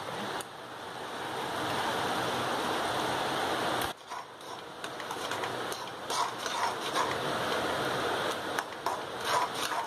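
Chicken masala sizzling in a frying pan while a spatula stirs and turns it, with scattered scrapes and taps of the spatula against the pan. The sizzle dips briefly about four seconds in.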